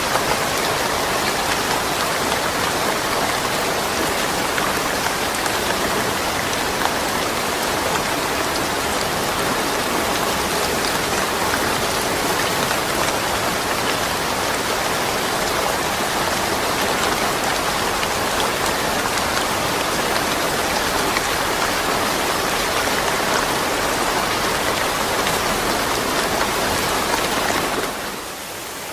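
Steady, dense rainfall with no thunder. Near the end it drops suddenly to a quieter, thinner hiss.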